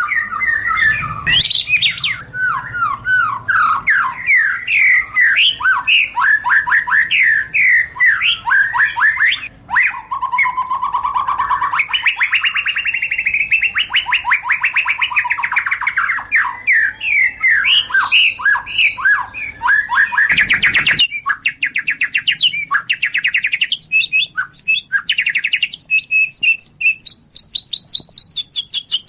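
White-rumped shama singing a long, varied song of quick, whistled notes that sweep up and down. A drawn-out warbling phrase comes about a third of the way in, and a brief burst of noise about two-thirds through.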